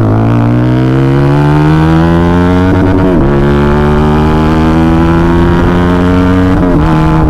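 Yamaha MT-15's 155 cc single-cylinder engine, breathing through an aftermarket full-system exhaust, running loud under acceleration. Its pitch climbs steadily, dips at a gear change about three seconds in, then climbs again and shifts once more near the end.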